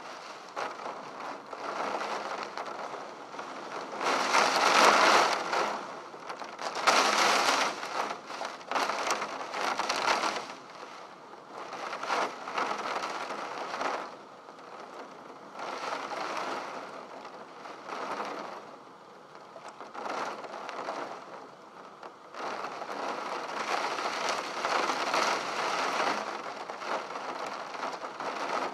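Heavy rain beating on a window pane, coming in gusts that swell and ease, heaviest about four to eight seconds in.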